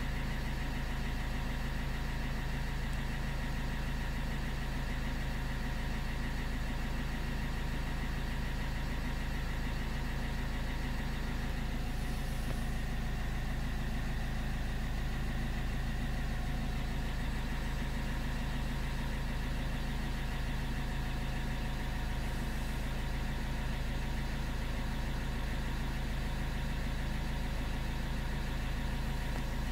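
Car engine idling steadily, an even low hum with no change in speed.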